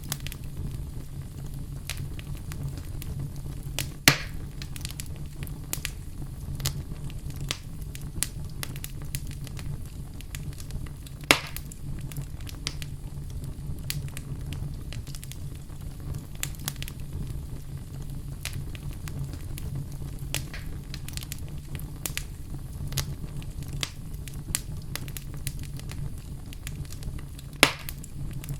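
Wood fire in a fireplace burning steadily with a low rumble and constant fine crackling, and three louder sharp pops about four, eleven and twenty-seven seconds in.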